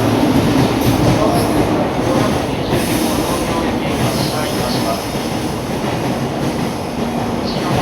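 N700A Shinkansen train moving along the platform track: a steady, loud rumble of wheels and running gear with some rail hiss.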